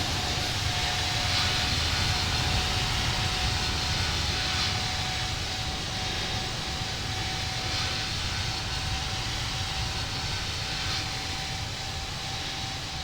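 Airbus A350's Rolls-Royce Trent XWB jet engines on a landing approach: a steady whine over a low rumble, slowly fading as the airliner passes.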